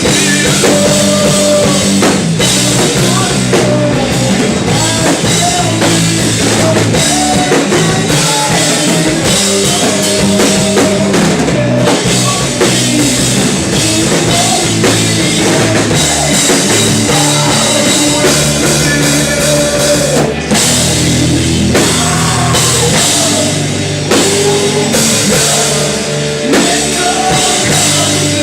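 A live rock band playing loudly and without a break, with a full drum kit, guitars and bass.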